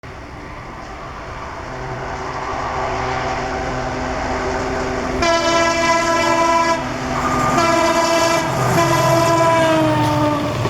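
EMD WDP 4D diesel locomotive approaching at speed, its engine and wheel rumble growing louder over the first five seconds. It then sounds its multi-note air horn in two long blasts, a short one and then a longer one, the horn's pitch dropping near the end as it passes.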